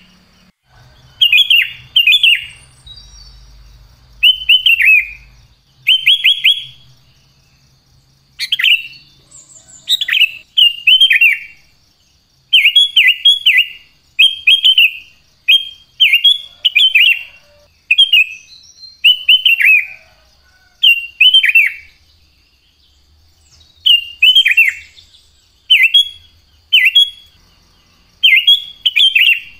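Sooty-headed bulbul (kutilang) singing in short phrases of a few quick notes, repeated about once a second with a couple of brief pauses.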